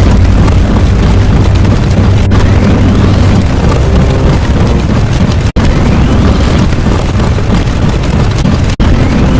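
Loud, continuous explosion-like rumbling noise sound effect, heavy in the bass, broken by abrupt splice cuts about every three seconds, with faint rising whistles after some of the cuts.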